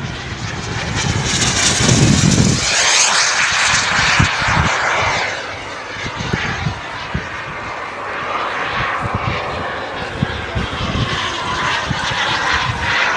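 Radio-controlled model jet flying past, its turbine whining loudly; the whine swells and its pitch falls as the model passes, about two to four seconds in.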